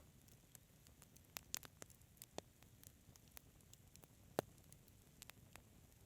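Fireplace fire crackling faintly: scattered sharp pops at irregular intervals, a quick run of them early and one louder snap about two-thirds of the way through, over a low steady hiss.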